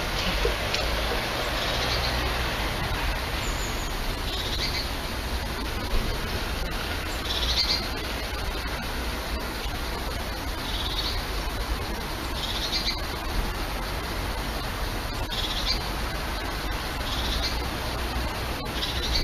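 A small bird calling with short high chirps about every two seconds, over steady outdoor noise and low wind rumble.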